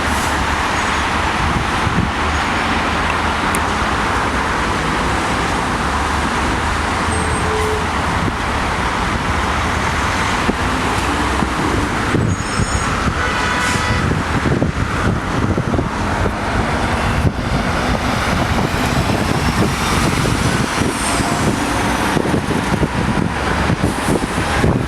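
Steady freeway traffic and road noise, a continuous rumble and rush of passing vehicles, with a brief pitched tone about halfway through.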